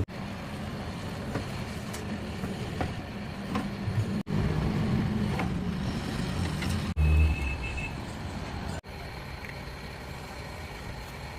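Small 2 kW gasoline generator engine running steadily, heard in several spliced clips with abrupt breaks about four, seven and nine seconds in; after the last break it is quieter.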